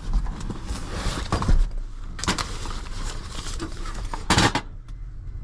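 Handling noises as a scan tool is taken out and picked up: rustling and clatter with a few sharp knocks, the loudest about four seconds in, over a low steady hum.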